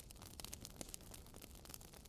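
Wood fire in a fireplace crackling faintly: a steady, irregular run of small sharp pops and snaps over a low rumble.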